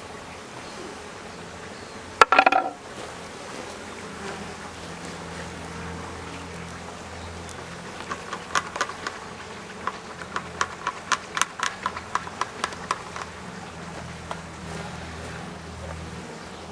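Honeybee colony in an open top-bar hive buzzing steadily as an agitated hum, the colony stirred up by the inspection. A sharp knock comes about two seconds in, and a run of light clicks follows from about eight to thirteen seconds in.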